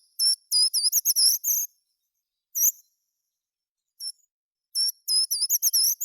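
A songbird singing short, rapid phrases of high, quickly repeated notes: one phrase at the start, two single notes in the middle and another phrase near the end, with clean pauses between.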